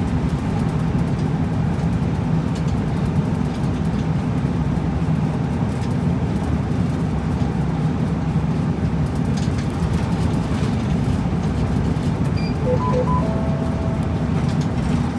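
Route bus running along the road, heard from inside the cabin: a steady engine and road rumble, with a few brief faint tones near the end.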